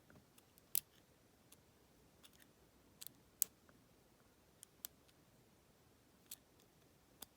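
Faint, irregular metal clicks of a lock pick working the pins inside a Federal PL90PE lockout-tagout padlock, a dozen or so scattered ticks with the sharpest about a second and three and a half seconds in.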